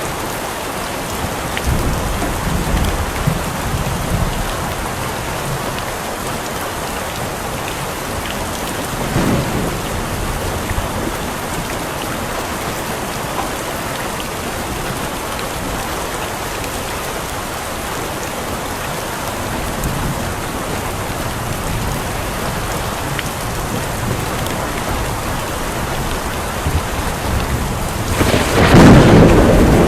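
Steady heavy rain with rolling thunder: low rumbles come and go, and a louder thunderclap breaks in near the end.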